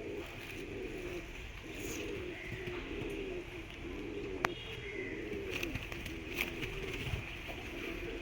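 Pigeons cooing, a run of low wavering coos one after another, with a single sharp click about four and a half seconds in.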